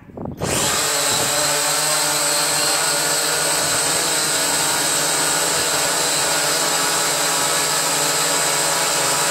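Syma X8 quadcopter's motors and propellers spinning up suddenly about half a second in, then running at a steady high speed with an even buzzing whine, its downdraft fanning a barbecue fire.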